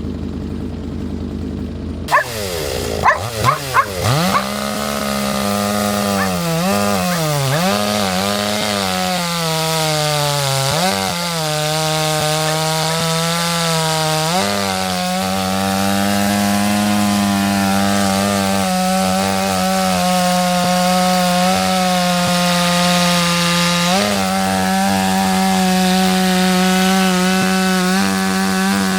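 Small chainsaw revving up with a few sharp bursts about two seconds in, then running at high speed cutting firewood. Its pitch repeatedly dips and recovers as the chain bites into the wood, and it runs more steadily over the second half.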